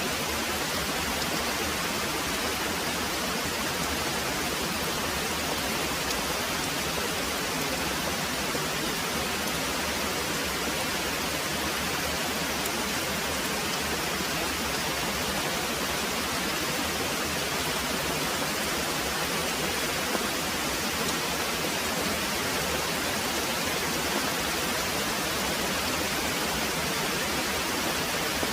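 Very heavy rain pouring steadily, an even, unbroken hiss.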